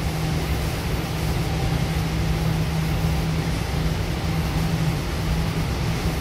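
Goninan K-set double-deck electric train running at speed, heard from inside the passenger car: a steady rumble of wheels on track with a constant low hum throughout.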